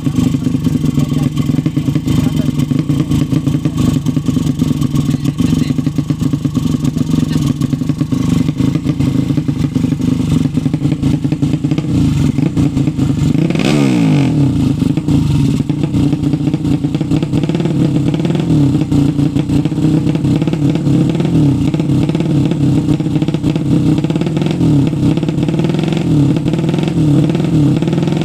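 A 200 cc drag-race motorcycle engine idling loudly, with a single quick rev and drop about halfway through.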